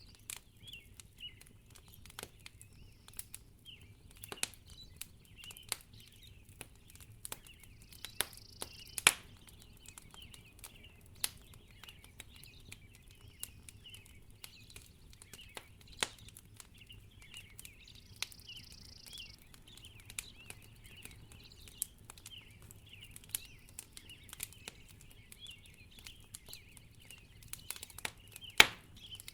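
Wood fire crackling in a fireplace: irregular sharp pops and snaps, with a loud pop about nine seconds in and another near the end, over a faint low hum and faint high chirping in the background.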